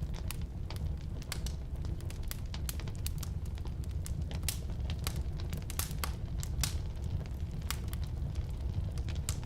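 Firewood burning in a fireplace or wood stove: a steady low rumble of flames under frequent irregular crackles and pops, with a few louder snaps around the middle.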